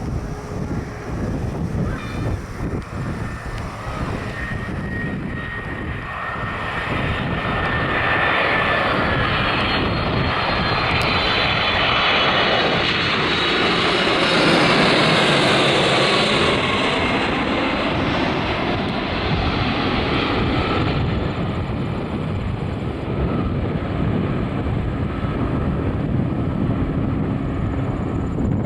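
FedEx Boeing 767-300 freighter's jet engines on final approach: the sound swells to its loudest about fifteen seconds in with a high whine that falls in pitch as it passes, then the whine drops away about twenty seconds in, leaving a lower rumble.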